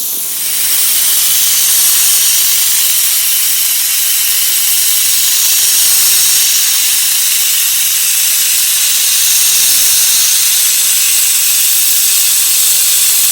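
Sandblaster blasting abrasive onto the steel mower deck to strip rust: a loud, steady hiss.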